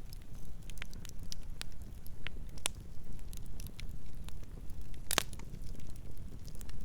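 Wood campfire crackling: irregular sharp pops and snaps over a steady low rumble of the flames, with one loud pop about five seconds in.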